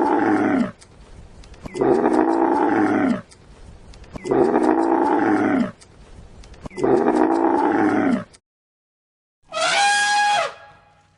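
A large animal's deep call, repeated four times, each about a second and a half long. After a short silence comes a different, higher call with clear tones that falls in pitch.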